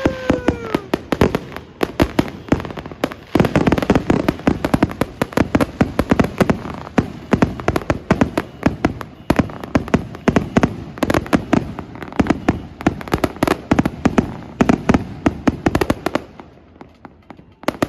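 New Year's fireworks and firecrackers going off all around: a dense, continuous barrage of sharp bangs and crackling reports that thins out near the end. A whistle falls in pitch at the very start.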